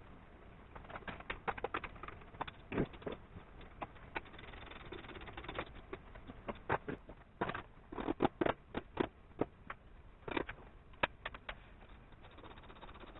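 A run of irregular, sharp clicks and light knocks, bunched in quick clusters, with the densest, loudest cluster about two-thirds of the way through.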